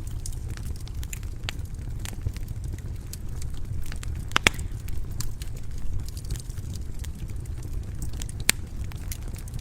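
Wood fire burning in a stone fireplace: a steady low rumble of the flames with scattered sharp crackles and pops, two of them louder, about halfway through and near the end.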